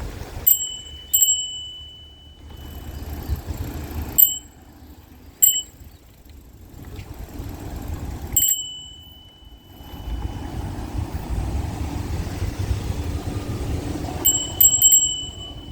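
Bicycle bell rung several times: short high dings, a few of them ringing on for a second or so, in clusters near the start, in the middle and near the end, over a low rumble.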